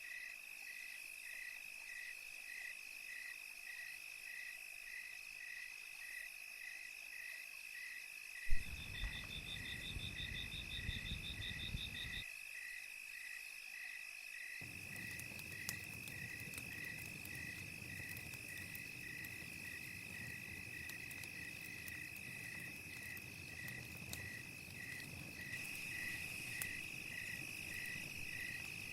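Crickets chirping steadily, about two chirps a second, over a continuous high insect trill. About halfway through, a low crackle of a campfire comes in, with scattered small pops.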